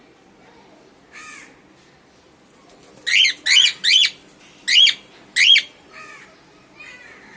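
Cockatiel calling: one soft call, then five loud calls in quick succession, each rising and falling in pitch, then two softer calls near the end.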